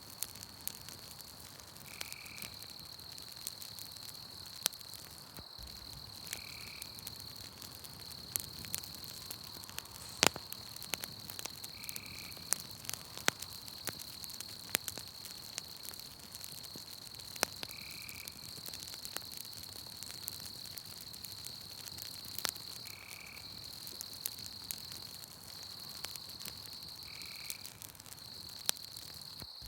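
Campfire crackling, with sharp pops scattered irregularly, over a continuous high-pitched insect trill. A short animal call repeats about every four to six seconds, six times in all.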